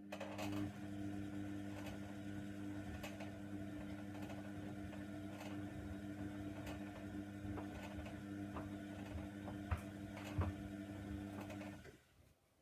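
Hoover Nextra washer-dryer's motor turning the drum on a wash tumble: a steady hum with light clicks and taps from the load, stopping suddenly near the end.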